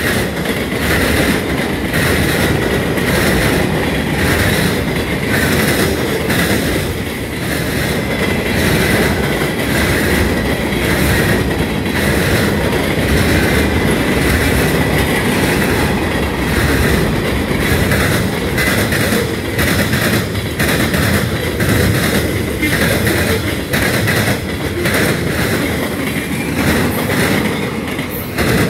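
Freight cars of a CSX manifest train rolling past at speed: a steady rumble of steel wheels on rail with repeated clicking and knocking as wheel sets cross the rail joints, and a thin, steady high-pitched wheel squeal underneath.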